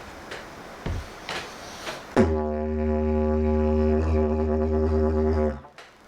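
A single long, low buzzing drone with many overtones. It starts abruptly about two seconds in, holds one steady pitch for about three and a half seconds, and then stops.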